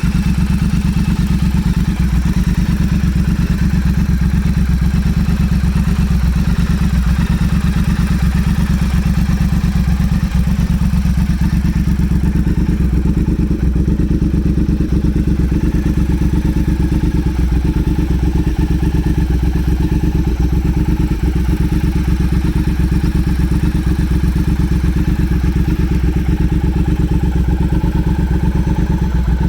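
Motorcycle engine running steadily at a constant speed, with a slight change in tone about twelve seconds in and no revving.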